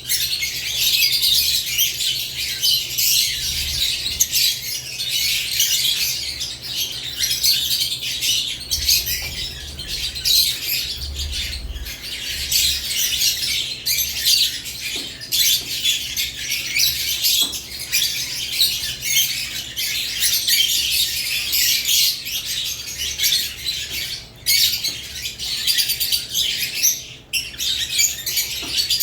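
A group of caged lovebirds chattering continuously with dense, high-pitched chirps and squawks.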